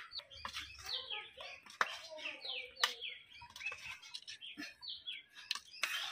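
Small birds chirping over and over in short, quickly falling notes, with a few sharp clicks and knocks among them, the loudest nearly three seconds in.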